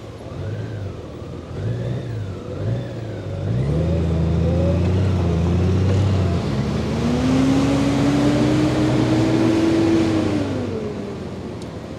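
Honda Gold Wing's flat-six engine pulling away after a few short swells. It revs up as the bike accelerates, the dual-clutch transmission shifting up about six seconds in, then eases off near the end. Wind rush grows with speed.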